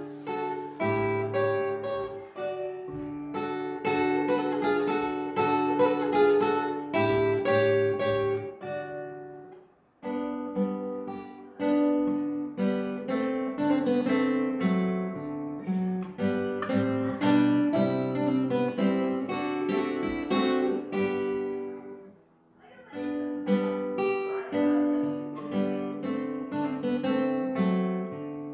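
Acoustic guitar playing a waltz, plucked notes and chords, with a brief pause about ten seconds in and another near 22 seconds.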